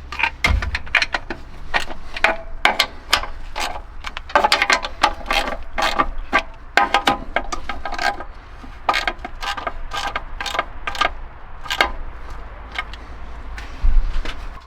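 Hand tools working on metal: irregular clicking and clinking, a few strikes a second, over a low steady hum.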